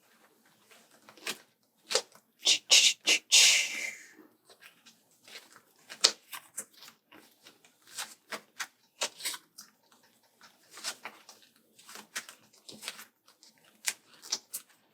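Sticker sheets and paper being handled and flipped through while searching: a string of small rustles and clicks, with a louder burst of rustling about three seconds in.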